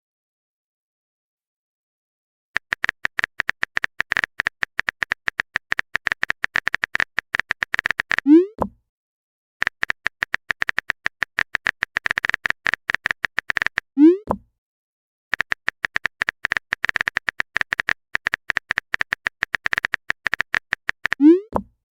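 Typing sound effect: rapid clicks in three runs of several seconds each. Each run ends with a short rising pop, a message-sent notification tone.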